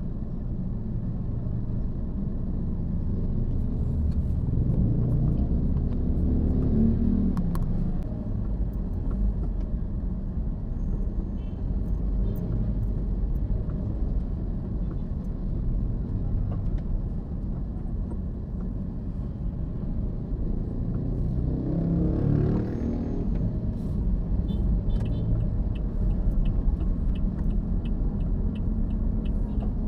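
Steady low rumble of a car driving. It swells about five seconds in and again about twenty-two seconds in, and a run of light, regular ticks comes near the end.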